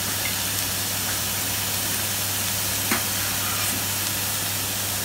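Minced pork dry-frying in a wok, a steady sizzling hiss over a constant low hum, as the meat is browned before water goes in. A single click sounds about three seconds in.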